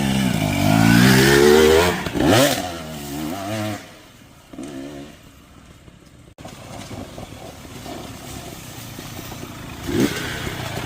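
Two-stroke dirt bike engine revving up and down as it is ridden, with a sharp rise and fall in pitch about two seconds in. After a cut about six seconds in, the engine is quieter and farther off.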